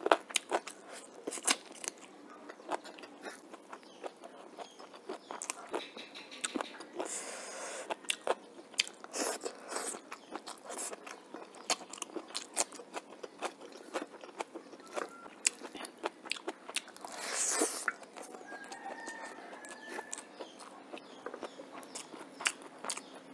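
Close-up chewing and biting of a meal of rice with chicken and bamboo shoot curry and raw onion, eaten by hand: wet chewing with many sharp crunchy clicks, and a longer hiss twice.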